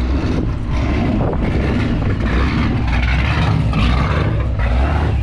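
Car engine idling, a loud steady low exhaust note.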